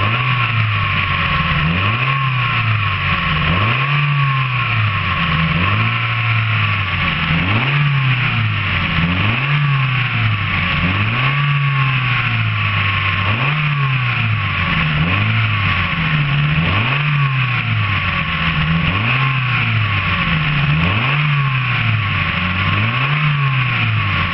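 Mazda 323 1.6-litre 16-valve four-cylinder petrol engine running and being revved over and over, its note rising and falling smoothly about once every second and a half.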